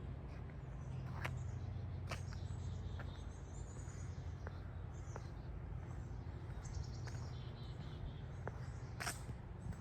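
Small birds chirping now and then in short high calls over a steady low rumble, with a few sharp clicks, the loudest about nine seconds in.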